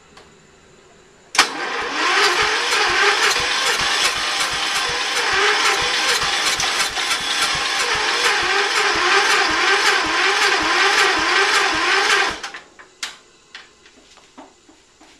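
Kohler K301 12 hp single-cylinder engine on a Ford LGT120 garden tractor being cranked by its electric starter for about eleven seconds in a slow, even rhythm, without catching, then stopping. It is a hard start: the battery is weak so it turns over slowly, and the owner suspects the valves were messed up when a new piston was fitted.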